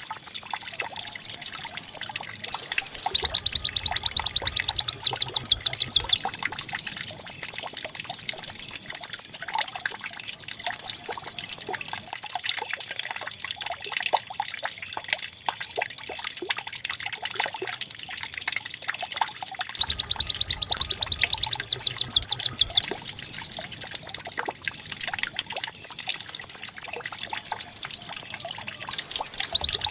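White-eye (pleci) song in a fast, canary-like trill: long runs of high, rapidly repeated sweeping notes. The song drops away for about eight seconds in the middle, then the same phrases come back, as from a looped lure recording.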